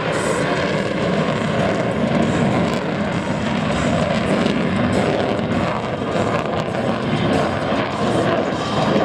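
Lockheed Martin F-22 Raptor's twin Pratt & Whitney F119 afterburning turbofans producing loud, steady jet noise as the fighter flies its demonstration manoeuvres.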